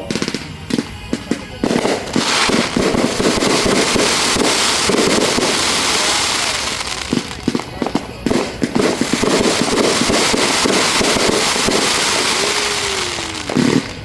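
Fireworks going off: a quick string of sharp bangs in the first couple of seconds, then about ten seconds of continuous dense crackling from many small bursts, easing off near the end.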